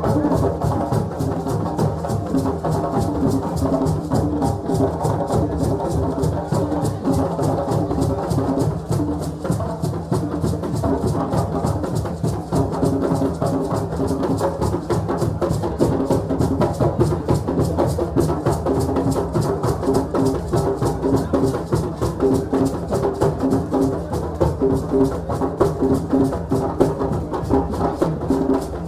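West African drumming: several drums played together in a fast, dense, steady rhythm, with some sustained pitched sound underneath.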